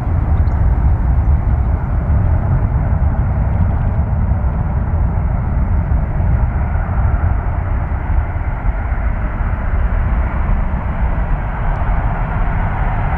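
Boeing C-17 Globemaster III's four turbofan engines, a steady, loud jet rumble with a deep low end.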